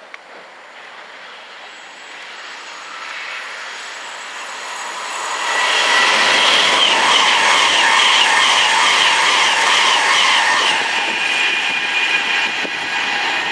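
Virgin Pendolino electric express running through the station at speed without stopping. It grows steadily louder over the first five seconds and is loudest for about five seconds as it passes close, with a steady high whine over the rush of wheels and air. It then eases only slowly.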